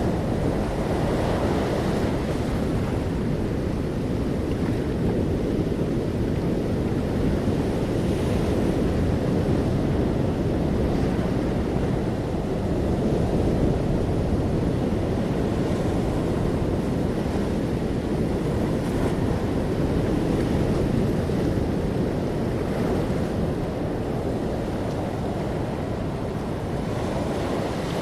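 Sea waves washing in steadily with wind, the surf swelling and easing a little, with wind rumbling on the microphone.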